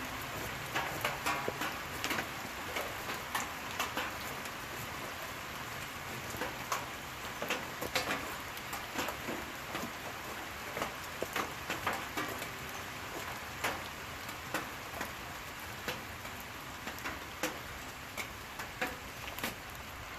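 Steady rain falling, an even hiss dotted with many irregular sharp ticks of drops striking nearby surfaces.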